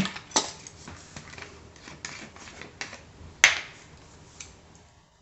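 Light, irregular clicks and taps of kitchen utensils and containers while measuring dressing ingredients, with one sharp louder click about three and a half seconds in.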